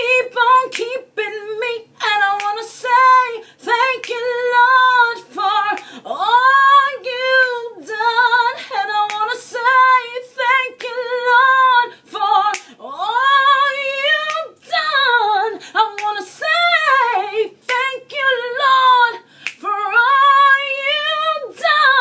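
A woman singing a gospel song unaccompanied, with strong vibrato and long ornamented runs on held notes.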